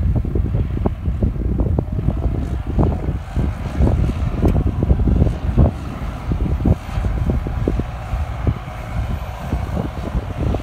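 Farm tractor's diesel engine running, with gusts of wind buffeting the microphone.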